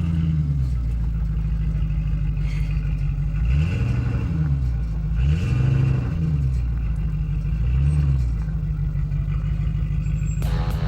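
2003 Land Rover Discovery 2 engine running under load, its revs rising and falling four times as the throttle is worked. Background music comes in near the end.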